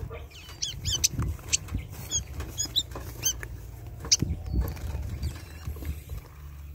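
A small songbird giving short, sharp chirping calls, about eight scattered through, over a steady low rumble with a few soft knocks.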